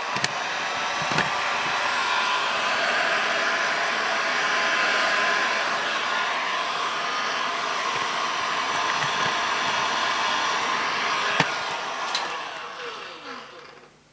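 Handheld hot-air blower running steadily, heating the screen's adhesive strips. Switched off near the end, its fan winding down with a falling whine.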